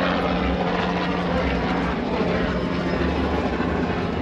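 An engine running steadily: a constant pitched hum over a low, uneven throb.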